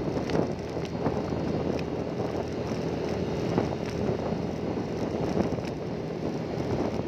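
Engine of a moving vehicle running steadily, with wind rushing over the microphone and a few light clicks and knocks.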